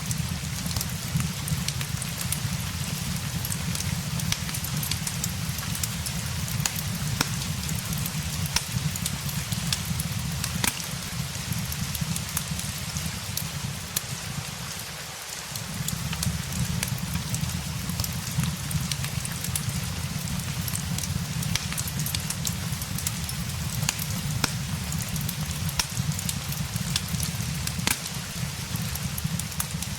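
Steady rain hiss mixed with a crackling fireplace: frequent small sharp pops and ticks over the rain, above a low steady rumble that dips briefly near the middle.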